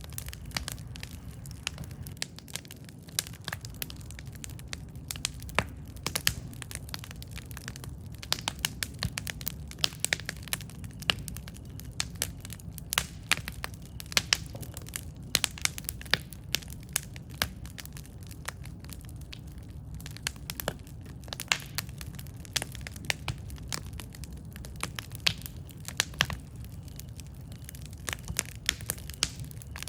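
Wood campfire burning, with frequent irregular crackles and sharp pops over a steady low rumble of the flames.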